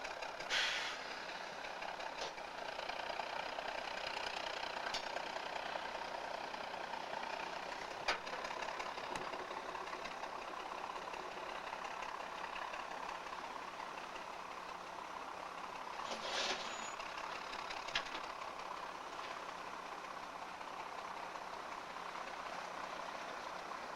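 Rail locomotive's engine running steadily, with two short hisses, one near the start and one about two-thirds of the way through, and a few sharp clanks.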